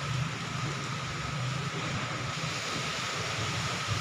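Strong wind blowing steadily, a continuous rushing with a low rumble of wind buffeting the microphone.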